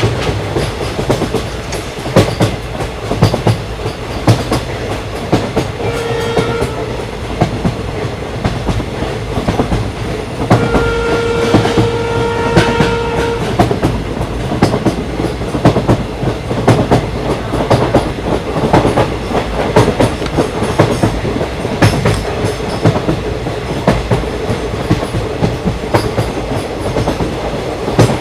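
Train running past on the rails, its wheels clattering steadily. The locomotive horn sounds twice: a short blast about six seconds in, and a longer one of about three seconds a little after ten seconds in.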